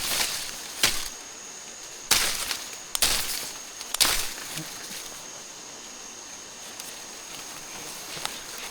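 A handful of sharp knocks and short rustling bursts in the first four seconds, then a steady low outdoor hiss with a thin, constant high-pitched insect tone.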